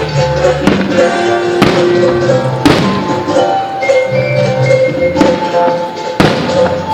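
Loud music with fireworks bursting over it: about five sharp bangs, the strongest near the middle and near the end.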